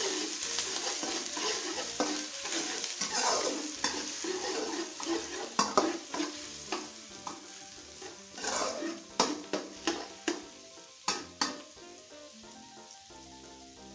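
Minced garlic and ginger sizzling in hot oil in a wok while a spatula stirs them. The sizzle is strongest in the first few seconds and then eases, and from about five seconds in the spatula's sharp clicks and scrapes on the wok are heard.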